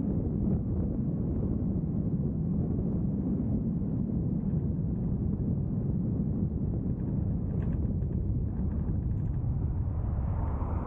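Steady low rumble of a vehicle driving on the road, the tyre and wind noise of a moving car or truck, with a few faint ticks about eight seconds in and a brief rise in the noise near the end.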